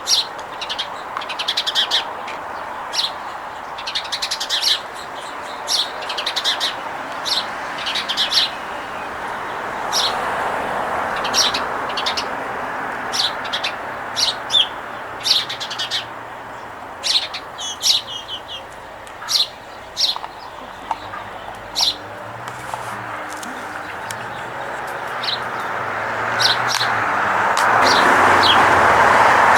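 Small birds chirping in many short, high calls that keep coming, over a steady rushing background noise that grows louder near the end.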